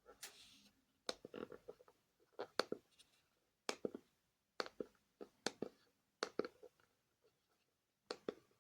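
Sharp plastic clicks and taps in small clusters about once a second, with a short rustle near the start: a handheld Bosch KTS 300 scan tester being handled on the bench.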